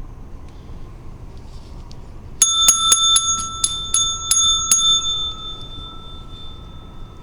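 A small metal bell struck rapidly about nine times over two seconds, its high ringing tone lingering and fading after the last strike.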